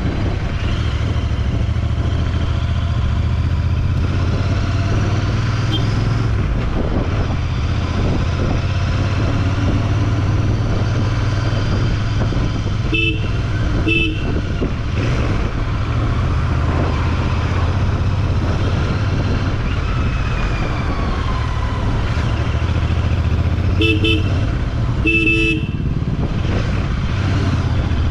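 Steady low rumble of a motorcycle on the move, with a vehicle horn honking four times: two short toots about halfway through, then two more near the end, the last one held longer.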